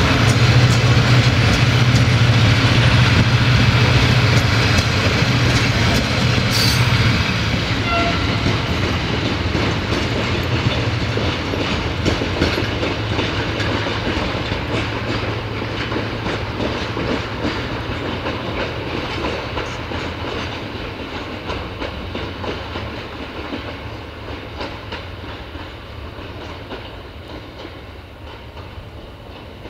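Railway passenger coaches rolling past and away, their wheels clicking over the rail joints, with a low steady hum that dies away about ten seconds in. The whole sound fades steadily as the train draws off into the distance.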